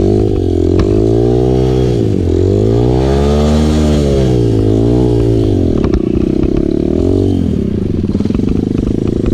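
Dirt bike engine being revved up and down in several swells, its pitch climbing and dropping roughly every one to two seconds, with the longest, highest rise in the middle.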